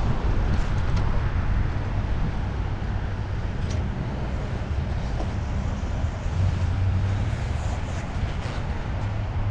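Steady low wind rumble on a chest-mounted GoPro's microphone, mixed with road noise from riding a fixed-gear bicycle on 28 mm tyres, with a few faint ticks.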